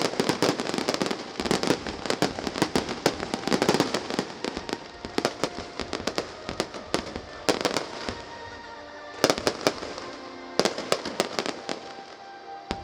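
Fireworks crackling and popping in dense rapid volleys, thinning out to scattered pops over the last few seconds. Music with held tones comes in during the second half.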